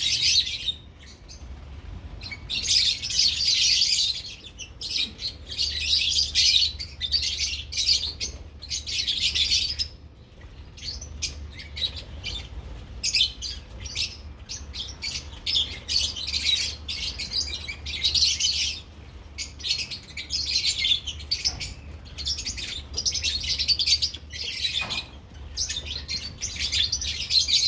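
Lovebirds chattering and chirping in high-pitched bursts that come and go every second or two.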